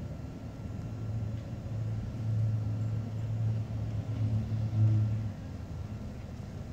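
A 1970 Ford Torino's 429 Cobra Jet V8 running through dual exhaust with headers. It gets louder about a second and a half in, holds higher with a few uneven swells, and drops back after about five seconds, as when the throttle is opened and let off.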